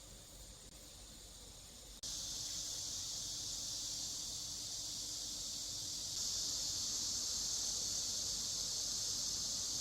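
Dense, steady chorus of late-summer insects, high-pitched and continuous. It steps up suddenly in loudness about two seconds in and again a little after six seconds.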